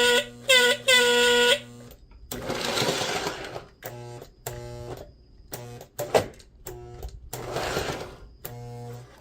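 Battery-powered buzzer horn of a Lionel 2032 Erie FA-1 toy diesel locomotive sounding in loud blasts, working again on a fresh C battery. After a hissing, rustling stretch come several shorter, quieter toots with clicks between them.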